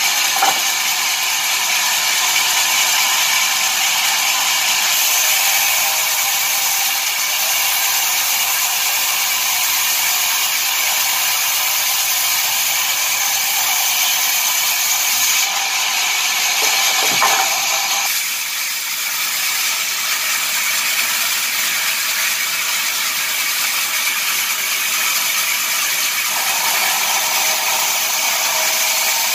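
Sawmill wood-cutting machinery running with a steady, high-pitched mechanical noise that shifts in tone a few times. Sharp knocks come once near the start and again about two-thirds of the way in.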